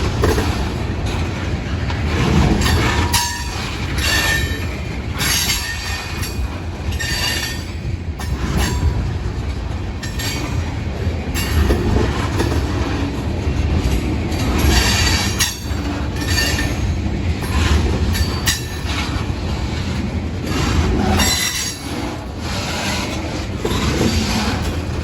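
Freight train of tank cars rolling by with a steady low rumble. Its wheels squeal against the rails again and again, with clicks and clatter every second or two.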